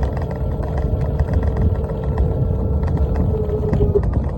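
Freight train rolling with a low rumble and a steady high-pitched squeal that wavers near the end, with scattered clicks.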